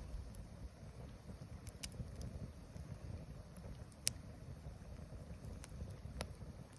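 Wood campfire burning, with scattered sharp crackles and pops from the burning wood, the loudest about four seconds in, over a low steady rumble.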